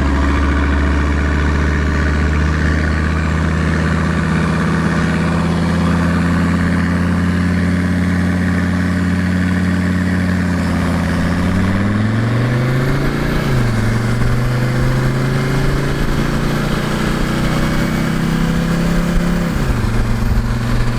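A 1984 Mercedes-Benz 300D's five-cylinder turbo diesel is held at a steady note for about eleven seconds, as if building boost against the brakes, then launches with the revs climbing. The automatic gearbox upshifts with a sudden drop in pitch, the engine pulls again, and it upshifts once more near the end.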